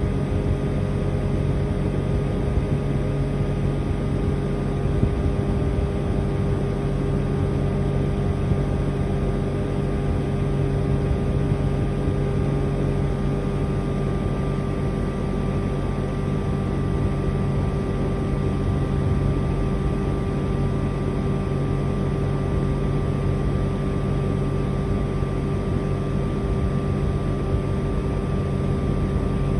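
Outdoor unit of a Mitsubishi Heavy Industries Beaver SRK56TX2 air conditioner running: a steady compressor hum with several held tones over the even rush of the fan.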